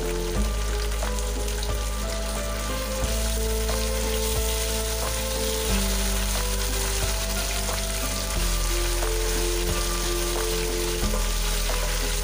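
Onions and spice paste sizzling steadily in hot oil in a nonstick frying pan, stirred with a wooden spatula that now and then knocks against the pan. Sustained background music notes run underneath.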